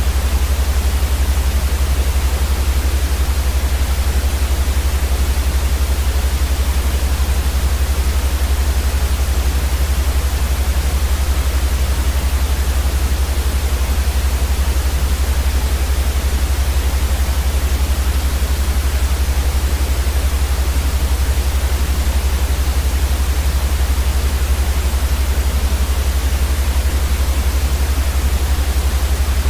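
Steady white noise, a constant even hiss with a strong deep rumble underneath, unchanging throughout.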